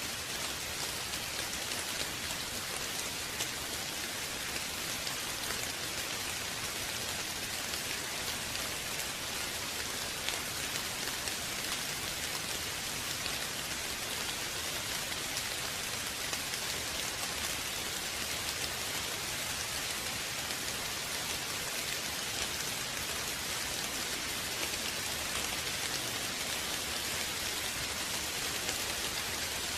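Steady rain falling and pattering on a surface, an even hiss with fine drop detail and no thunder.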